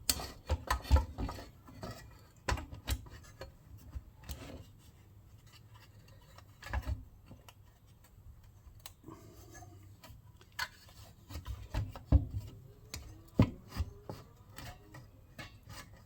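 Small engine parts being handled and fitted by hand: scattered clicks, taps and rubbing, busiest in the first few seconds and again near the end.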